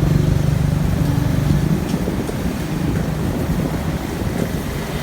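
Vehicle noise: a steady low engine and road rumble, with a hum that fades out about a second and a half in.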